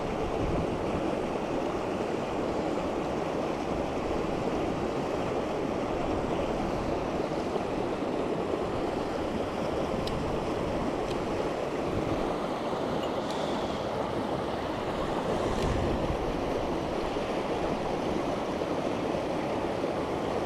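Mountain stream rushing steadily, an even hiss of flowing water, with a few faint clicks partway through.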